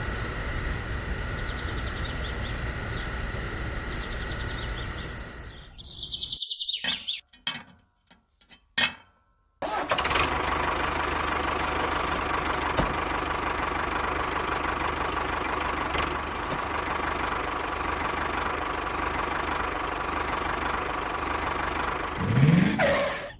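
Small electric motors of a homemade toy tractor and water-tanker set running with a steady whir. The whir cuts out for a few seconds in the middle, leaving only a few clicks, then starts up again and runs until a short rising whine near the end.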